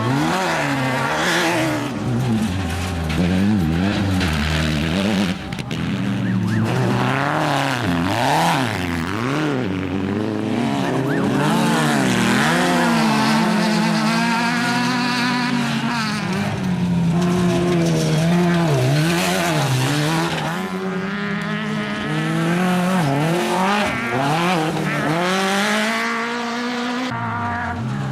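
Desert off-road race cars and trucks running at race pace, their engines revving up and falling back again and again.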